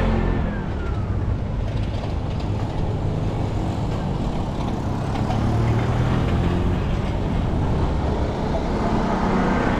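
City street traffic: the steady rumble of vehicle engines close by. A high tone glides down in pitch during the first second or so.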